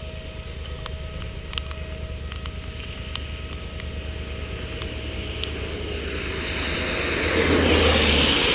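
Motorcycle engine running on the move with wind and road noise, swelling louder over the last couple of seconds, with scattered light ticks.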